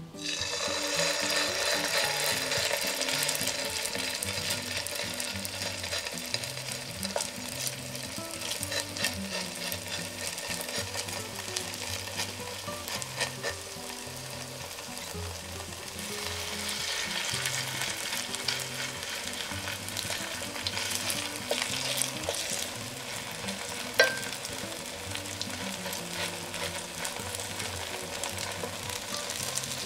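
Grated-potato pancake batter frying in oil in a nonstick pan: a steady sizzle and crackle that starts abruptly as the batter hits the hot oil. One sharp tap stands out about two-thirds of the way through.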